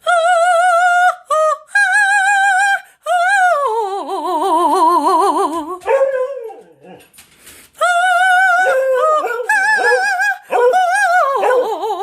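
Pet dog howling in a run of long, wavering howls with short breaks, one sliding down in pitch about four seconds in.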